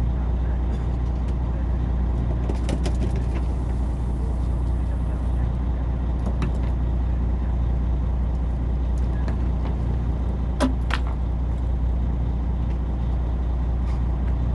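Fishing boat's engine running with a steady low hum, with a few light clicks and knocks from handling gear on board, the sharpest pair about two-thirds of the way through.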